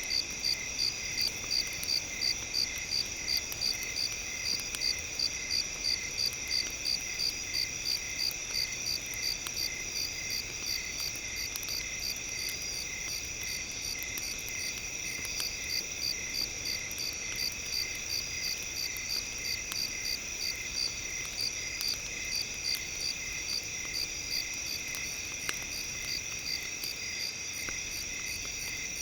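Several steady high-pitched tones with a chirping high note pulsing about three times a second over them, cricket-like, from a mixed relaxation sound track; faint ticks suggest campfire crackle low in the mix.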